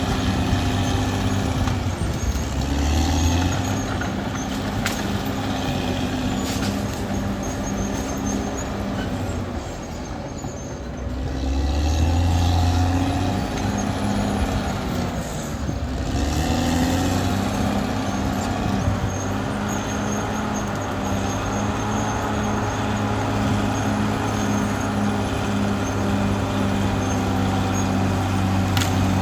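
Caterpillar D6R XL bulldozer's diesel engine working steadily, its note dragging down under load and recovering a few times, about three seconds in, around eleven seconds and around sixteen seconds. A few faint clicks sound through it.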